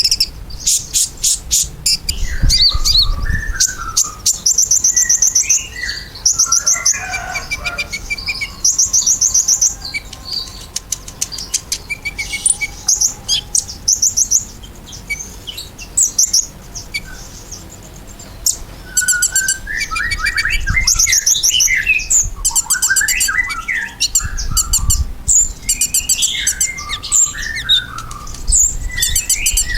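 Kolibri ninja sunbird singing: fast, high-pitched twittering trills and sharp chirps in quick bursts, with a quieter gap about halfway through. Low rumbles sit underneath in places.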